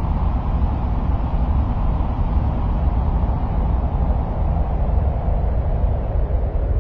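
Steady, even rumbling noise, strongest in the deep bass and fading toward the treble, without breaks or distinct events: an ambient noise track presented as the sound of Mars.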